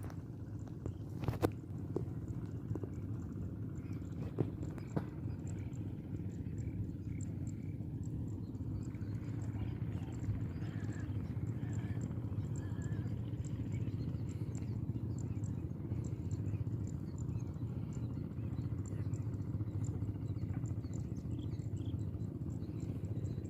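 Outdoor ambience: a steady low hum under faint insect chirping, with a few faint bird calls about halfway through and a few soft clicks in the first few seconds.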